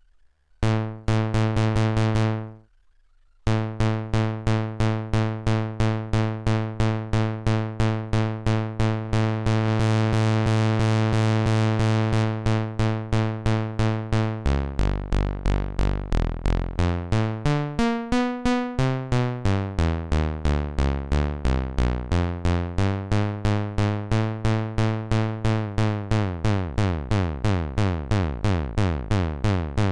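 Synthesized bass from the Zic Pixel groovebox's bass engine. One held note is followed by a short gap, then a steady repeating bassline of about three notes a second, whose pitch and tone change about halfway through.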